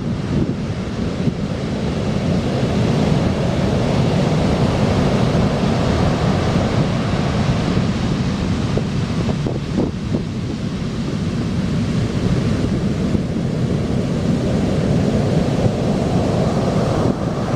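Heavy ocean surf breaking on the shore, a dense roar that swells and eases over several seconds, with wind buffeting the microphone. The big surf is swell sent in by a typhoon far to the south.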